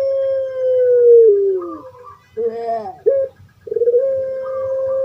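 Puter pelung dove (Barbary dove, Streptopelia risoria) giving its long drawn-out crowing call. A held note sinks in pitch at its end, a short falling gurgle follows about halfway through, then a second long held note begins.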